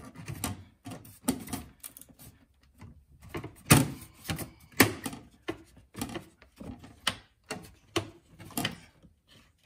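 Plastic engine covers being handled and pressed back into place: a string of clicks, knocks and rattles, the loudest a little under 4 s in and again about a second later.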